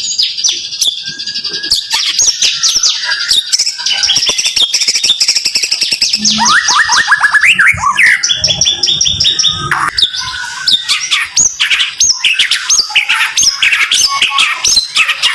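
White-rumped shama (murai batu) singing in rapid-fire bursts: fast runs of sweeping whistles and chattering trills. The phrases follow one another closely, with a brief pause about ten seconds in.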